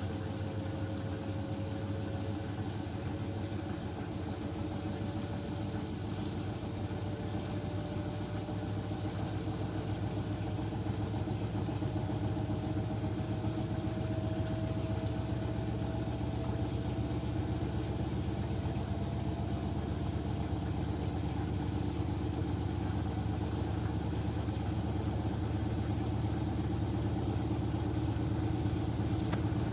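Arçelik 9123 N washing machine on its spin cycle: the motor's whine rises slowly in pitch over a fast, steady vibration, growing a little louder about ten seconds in. The spin is unbalanced.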